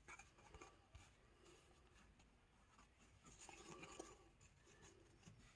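Near silence with faint rustling and soft clicks of paper trading cards being handled and flipped through.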